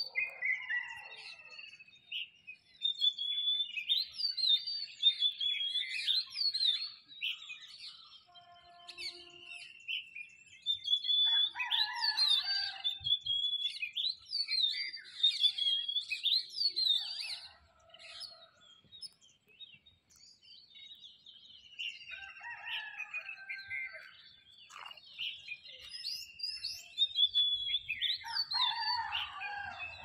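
Birds chirping and calling: many quick, high whistled notes and trills overlapping, coming in bouts with two short lulls, about a third and about two thirds of the way through.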